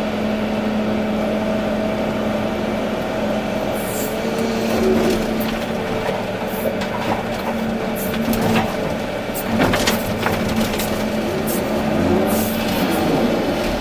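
Volvo EC380D excavator running steadily with a constant engine hum, joined by several sharp knocks and clatters, the strongest about ten seconds in.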